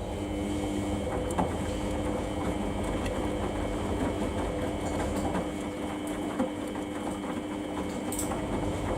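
Samsung washing machine running, with a steady motor hum and whine over a low rumble and a few light clicks and knocks from the drum.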